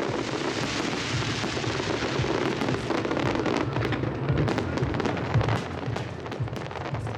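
Fireworks display going off in rapid succession: a dense crackle of bursting shells over a continuous low rumble of booms, loudest about four to five and a half seconds in.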